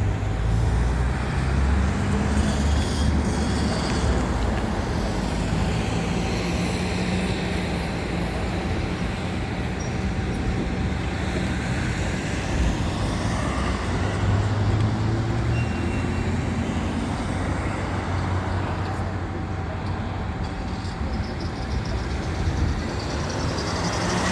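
Fire engine's diesel engine running as the truck drives off, its note rising and falling, over road traffic noise.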